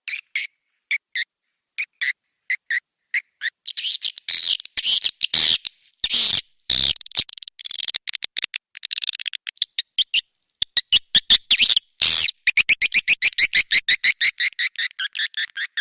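Swiftlet lure calls: sharp chirps at a slow pace, then a dense stretch of buzzy twittering and clicks, then a fast, even train of chirps near the end.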